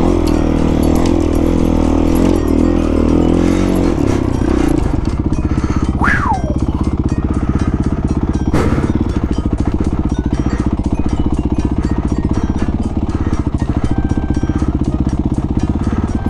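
Honda CRF450 single-cylinder four-stroke dirt bike engine running under the rider on a trail. The engine note drops about four seconds in and settles into a lower, steady pulsing. A short falling squeak comes near the middle, and a single knock follows soon after.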